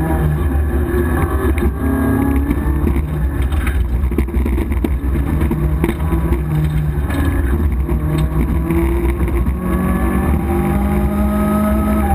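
Opel Manta GT/E rally car's four-cylinder engine at full stage pace, heard from inside the cabin, its revs stepping up and down as the driver works through the gears and corners, then climbing steadily near the end.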